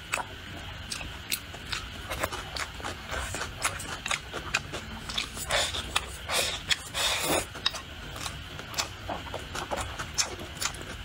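Close-miked chewing and wet mouth sounds of a person eating rice and stir-fried dishes: many short sharp smacks and clicks, with a few longer, louder ones between about five and seven and a half seconds in.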